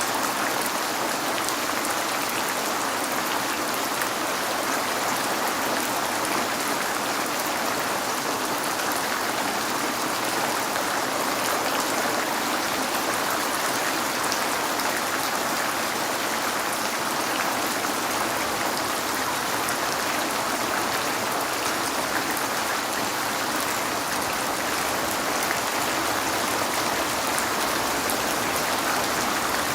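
Steady rain falling on a window: an even, unbroken hiss with a few faint sharp drop ticks.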